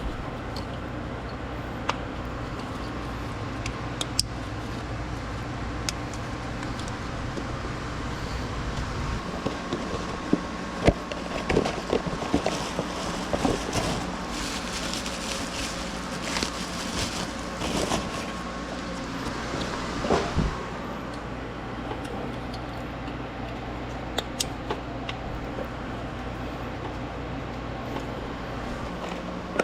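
Nissan Serena's four-cylinder petrol engine idling steadily on its new spark plugs and ignition coils, with scattered light clicks. About nine seconds in, the low hum of the engine drops and changes.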